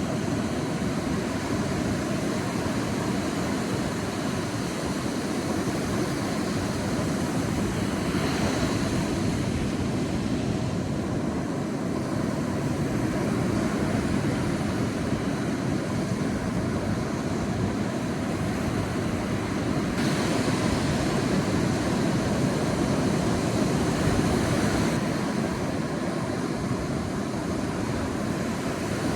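Sea waves surging on a beach: a steady wash of surf that swells louder twice, about eight seconds in and again around twenty seconds in.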